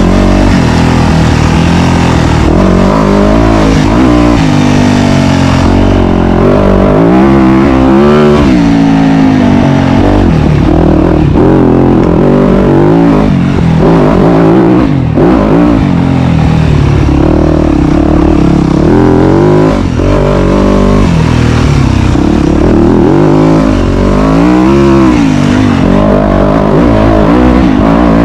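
Dirt bike engine being ridden hard on a trail, very loud and close, its pitch rising and falling over and over as the rider works the throttle and shifts.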